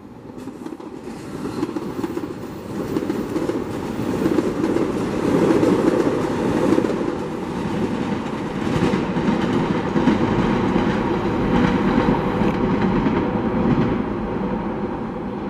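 SEPTA Silverliner electric multiple-unit train passing, its wheels clattering over rail joints and switches. The noise builds over the first few seconds, stays loud, and eases slightly near the end.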